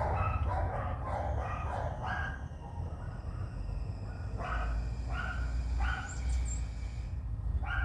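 Short, sharp animal calls repeated in quick bunches, about a dozen in all, with a few faint high chirps about six seconds in and a low rumble underneath.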